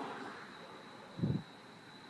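Passing road traffic fading away, with a single short low thump a little over a second in and a faint steady high whine.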